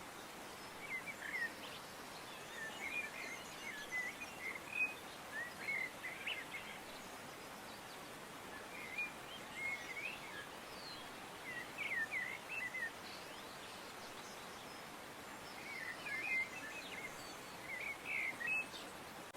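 Birds chirping in short clusters of quick twittering calls, returning every few seconds over a steady background hiss.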